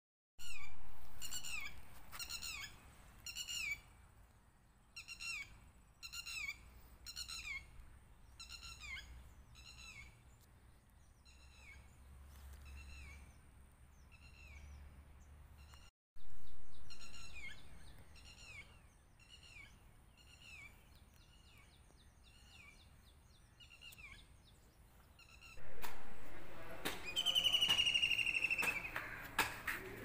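A bird calling: a long series of short, falling chirps, about one every half-second, loud at first and fading, then starting over loud about halfway through. Near the end a different, steady high-pitched call with a slight downward slide takes over.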